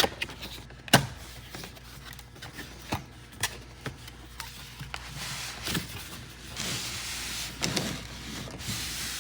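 Unboxing a model train: cardboard box and packaging being handled, with scattered sharp knocks and taps and stretches of rubbing and sliding.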